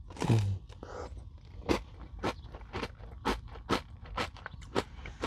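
Close-up chewing of crunchy Nature Valley granola bars coated in Greek yogurt and whipped cream: sharp crunches about twice a second. A short low hum of the voice comes near the start.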